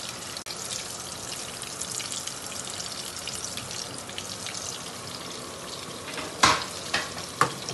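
Kebabs frying in ghee in a shallow pan: a steady crackling sizzle. Near the end come a few sharp knocks.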